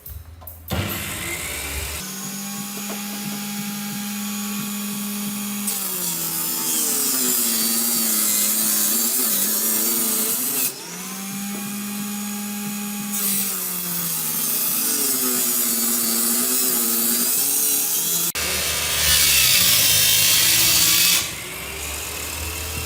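An electric power tool cutting or grinding, its motor tone holding steady and then sagging and recovering again and again as it bites into the work. It runs in two long stretches with a brief break about halfway, and the last few seconds are louder and harsher.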